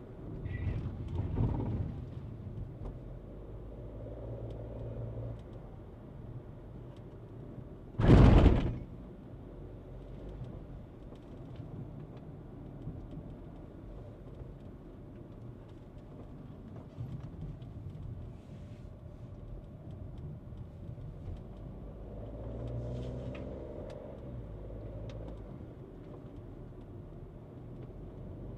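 Skoda Kushaq compact SUV moving slowly, a low steady rumble of engine and road noise, with one sharp, loud thump about eight seconds in.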